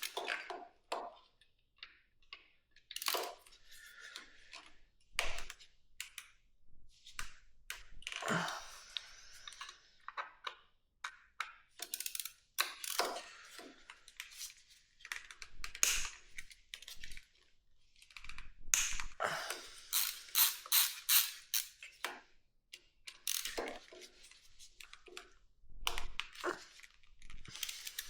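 Screwdriver and small metal parts clicking, tapping and scraping as stubborn screws are worked loose and handled. The sounds come in irregular quick clusters with short pauses between them.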